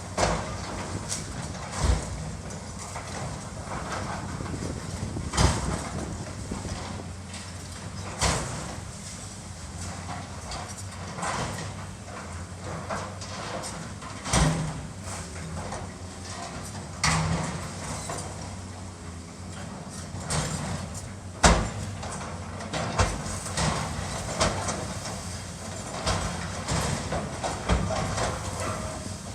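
Building demolition: a heavy machine's engine runs steadily under irregular knocks, crashes and clanks of breaking and falling debris, a dozen or so sharp ones spread through the stretch.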